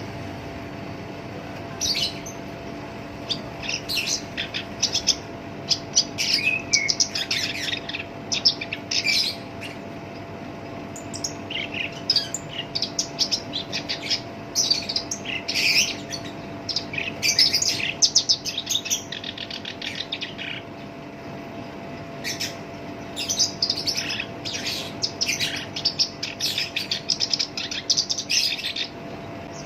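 Black-browed reed warbler singing a harsh song in quick runs of notes a few seconds long, with short pauses between them, over a faint steady hum.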